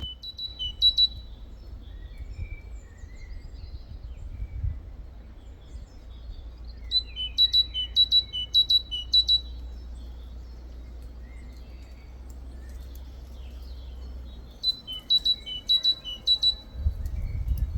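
Great tit singing its two-note 'teacher-teacher' song in three quick bouts, a high note alternating with a lower one, with fainter chirps between. A steady low hum lies underneath, turning into a louder low rumble near the end.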